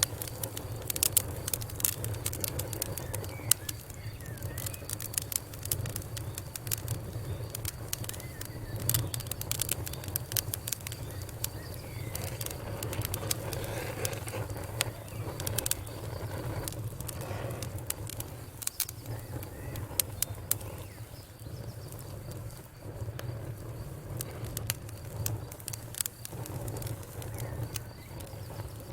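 Fire crackling, with frequent irregular sharp pops and snaps over a low steady hum.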